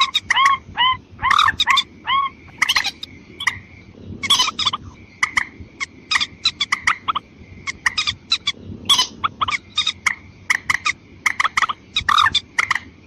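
Recorded mandar (rail) calls played as a bird lure: a dense, rapid run of short harsh calls and hooked notes repeating throughout, over a faint steady thin whistle.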